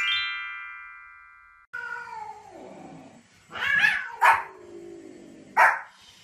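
A quick falling run of bell-like chime notes rings out and fades, then a cat meows in long, falling calls and a small white fluffy dog gives two sharp barks.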